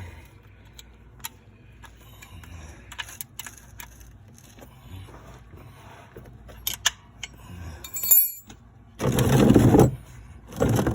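Hand tools (a 6mm Allen bit and ratchet) clicking and clinking irregularly on the ATV's oil drain plug as it is broken loose and unscrewed. About nine seconds in, a loud rushing noise lasts about a second, with a shorter one near the end.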